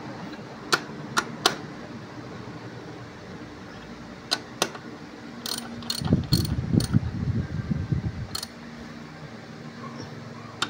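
Hand tools working on transmission parts during reassembly: scattered sharp metal clicks and knocks, with a rapid ratcheting rattle from about six to eight seconds in.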